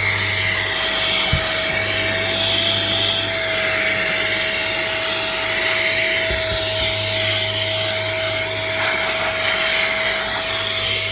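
Cordless electric air duster and mini vacuum running steadily, its high-speed motor giving a steady whine over a rush of air.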